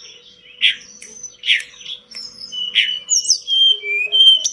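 A tledekan gunung (sulingan gunung) songbird singing a varied, lively song: short rough notes at intervals of about a second, then a run of clear whistled notes, some rising and some falling, in the second half.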